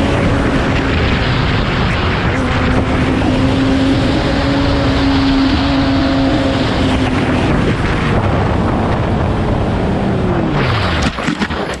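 Vehicle engine running at steady high revs under heavy wind rush, its pitch dropping near the end as it slows.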